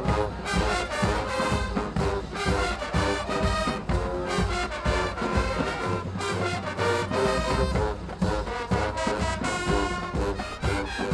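Marching band playing: brass led by trombones and trumpets over a steady drum beat.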